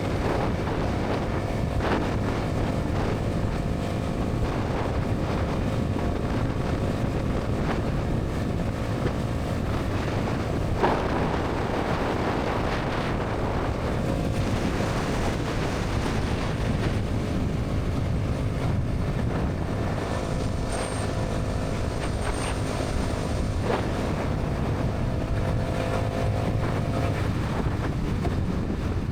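Bajaj Pulsar NS 200's single-cylinder engine and exhaust running at a steady highway cruise, with wind buffeting the microphone. A brief knock sounds about eleven seconds in.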